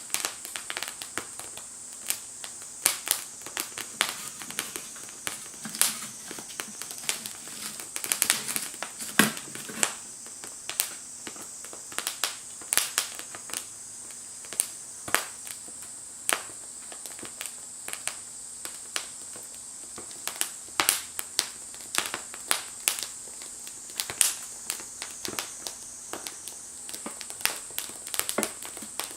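Wood fire burning in a small Firebox stove, crackling with irregular sharp pops and snaps over a steady hiss.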